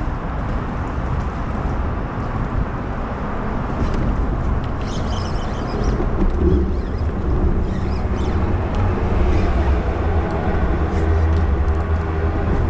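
Road traffic on the bridge overhead: a steady low rumble with a hiss of tyres.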